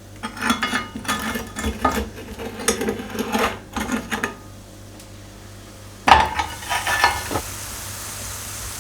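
Cutlery and dishes clinking and scraping for about four seconds, then a louder knock and clatter a little after six seconds, followed by a steady hiss.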